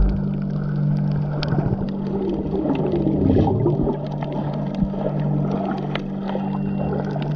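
Catamaran's engine running with a steady low drone, with water rushing and splashing along the hull and scattered knocks.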